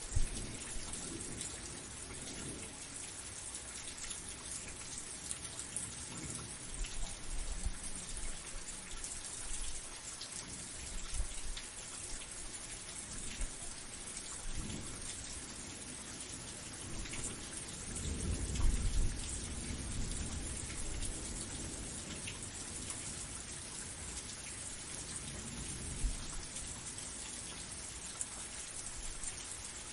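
Steady rain falling, a constant hiss of drops, with low rumbles of thunder coming and going, the longest and loudest about two-thirds of the way through.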